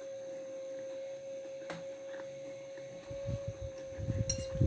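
Closed-mouth chewing of a mouthful of sausage, cabbage and rice: soft, irregular mouth sounds that start about three seconds in, with a light click near the end. A steady high-pitched hum runs underneath throughout.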